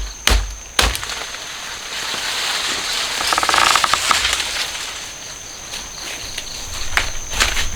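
A blade chopping through plant stalks: two sharp strokes at the start, then a stretch of leaves and stalks rustling and crackling as they are handled, then a few more strokes near the end.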